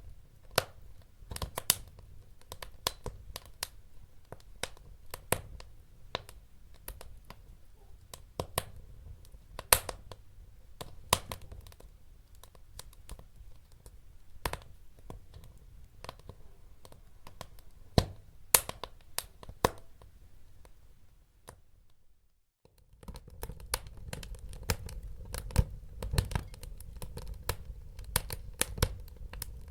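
Wood fire crackling, with irregular sharp pops over a low steady rumble of burning. About two-thirds of the way through it cuts out for about a second, then resumes with denser crackling.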